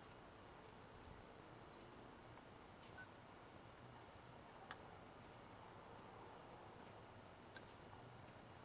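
Near silence: faint room tone with a scatter of soft, short high chirps and a single light click about halfway through.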